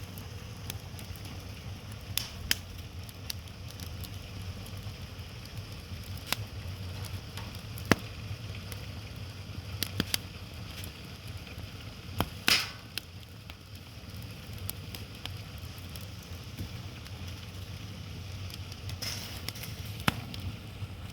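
Wood fire crackling, with irregular sharp pops of burning logs and one louder crackle about twelve seconds in.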